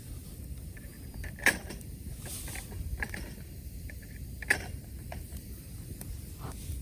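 Wood campfire crackling: sparse small ticks and two sharp pops about three seconds apart, over a low steady rumble.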